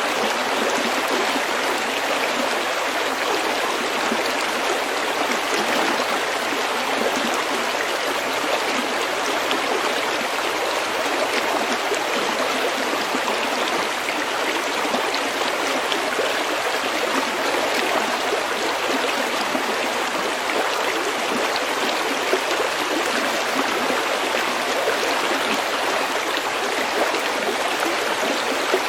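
A small stream flowing over pebbles, an even, unbroken rush of running water.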